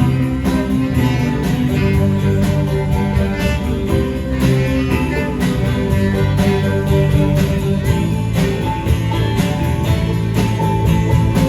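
Live band playing an instrumental passage with guitar to a steady drum beat.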